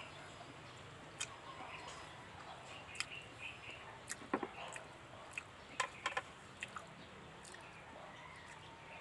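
Faint mouth sounds of eating by hand: scattered short clicks and smacks of chewing and lip smacking, with faint bird chirps behind.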